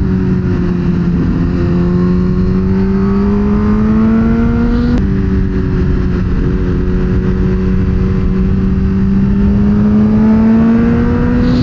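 Suzuki GSX-R1000R inline-four sport bike engine pulling under steady throttle, its pitch slowly rising. About five seconds in it drops with an upshift, then climbs again. Wind rushes over the rider's microphone throughout.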